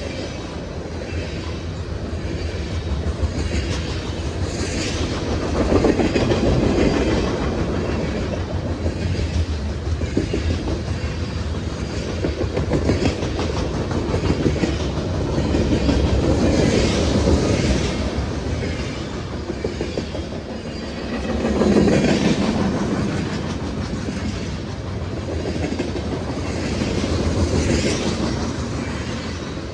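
Train cars rolling past, wheels clicking over rail joints in a steady rumble that swells and fades every few seconds.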